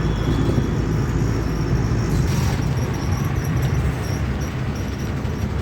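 Auto-rickshaw engine running while moving, with road and traffic noise heard from inside the open passenger cab and a short louder rush a little over two seconds in.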